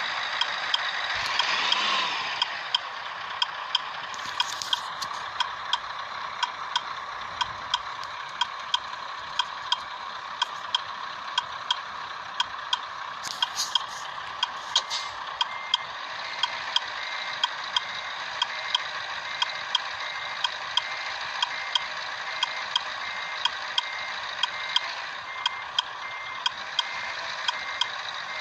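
Regular mechanical ticking, about two ticks a second, over a constant background hiss; a faint short beep starts repeating about halfway through.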